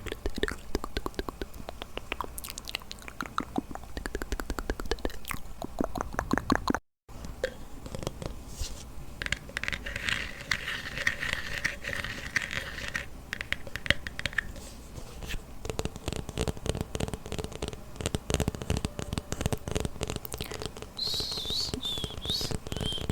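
Close-miked wet mouth sounds: rapid lip smacks and tongue clicks, with a brief cut about seven seconds in.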